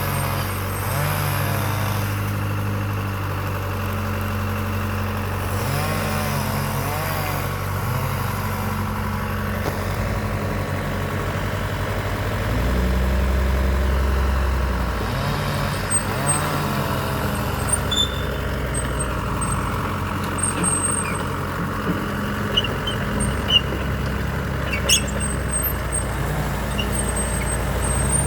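Heavy diesel engine running under load, its revs rising and falling several times, with a few sharp clanks and high squeaks in the second half.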